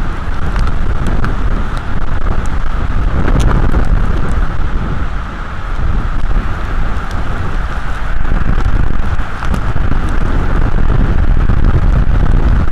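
Storm wind buffeting the microphone in a loud, steady rumble, with a hiss of rain and scattered ticks of drops.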